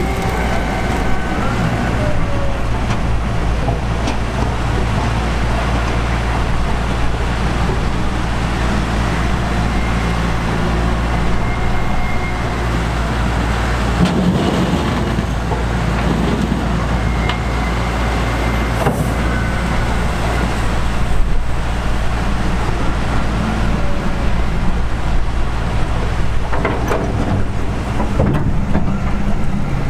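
Heavy diesel beet-harvest machinery running steadily at constant engine speed, with a deep, even engine note.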